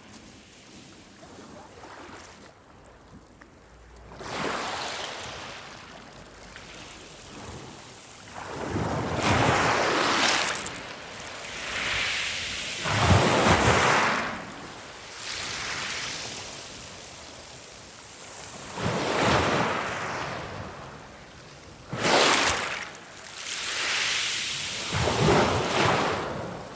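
Sea waves breaking on the shore one after another, each surge of hissing wash swelling and fading over a second or two.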